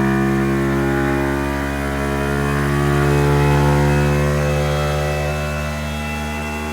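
Honda Monkey 125's single-cylinder four-stroke engine, carburettor-converted and fitted with an aftermarket exhaust, running hard at steady high revs on a rolling-road dyno. It swells a little about halfway through and eases slightly near the end. On this first carburettor power run it reads a little lean.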